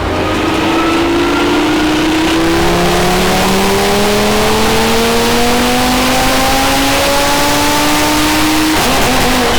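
Big-turbo Audi TT RS turbocharged inline five-cylinder under full load on a chassis dyno, its revs climbing steadily through one gear for about nine seconds. Near the end the pull is cut and the engine note drops as the revs fall back.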